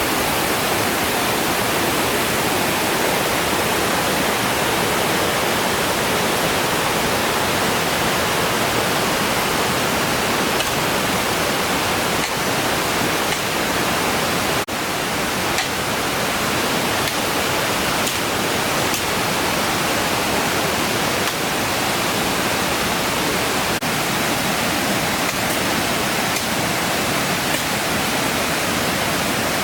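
Waterfall roaring steadily, a loud even rush of falling water.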